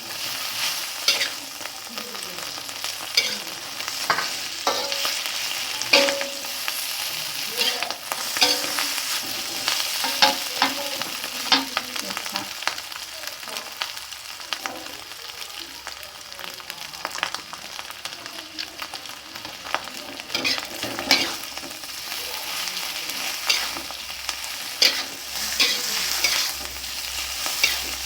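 Fried noodles being stir-fried with egg, meatballs and cabbage in a pan: a steady sizzle with a spatula scraping and clicking against the pan at irregular intervals.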